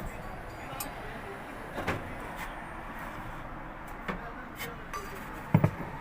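Scattered light clicks and knocks of metal parts being handled as the pulley and its washer are fitted onto the shaft of a washing machine gearbox, with a sharper double knock near the end.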